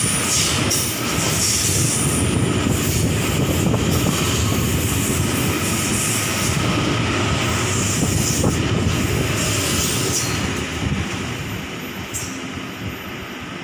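Double-deck electric suburban train running past along the platform, its carriages and wheels rattling, with a thin high-pitched wheel squeal in the first couple of seconds. The sound fades over the last three seconds as the train pulls away.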